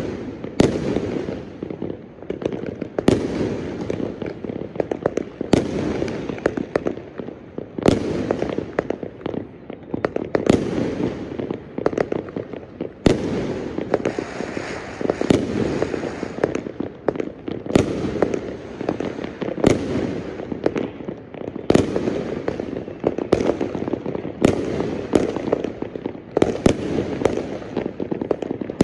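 Aerial fireworks going off one after another, a sharp bang every second or two, over a continuous crackling din of many more fireworks bursting around.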